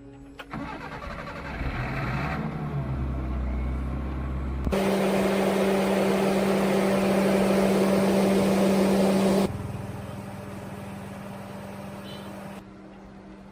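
Restored farm tractor engine running, heard in several short clips cut together. Its pitch rises near the start, and the loudest stretch is a steady run in the middle.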